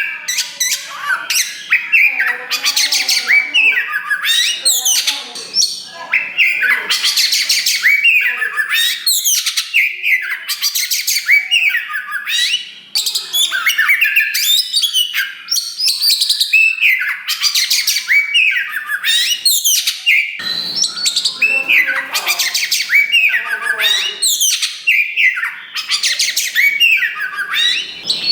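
Oriental magpie-robin of the black 'kacer wulung' form singing loudly and almost without pause: a rapid, varied stream of whistled, sweeping and trilled notes.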